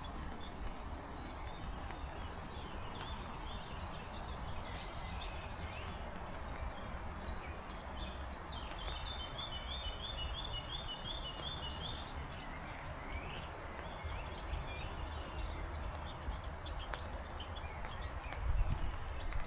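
Steady heavy rain with a low wind rumble on the microphone, and songbirds calling through it, one giving a rapid trill of about eight repeated notes around the middle.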